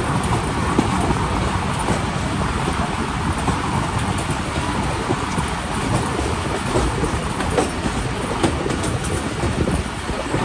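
Passenger coach of a moving express train, heard from an open window or door: a steady rumble and rush of wheels on the track, with a few sharp clicks from the wheels and rails.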